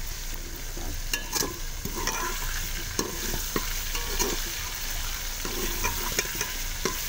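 Chicken pieces and browned onions sizzling in oil in a metal pot, stirred with a steel ladle that scrapes and clinks against the pot now and then.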